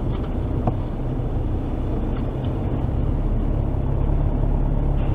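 Steady low rumble of a car driving, road and engine noise picked up by a dashcam inside the vehicle.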